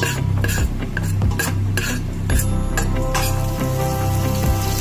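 Browned pieces frying in oil in a stainless steel pot, stirred with a utensil that scrapes and taps against the metal in a regular rhythm. About halfway through, the sizzle grows louder and brighter as raw chicken goes into the hot pot.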